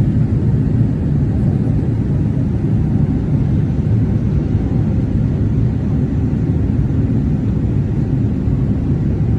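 Airliner cabin noise in flight: a steady, low rumble of the engines and airflow heard from inside the passenger cabin.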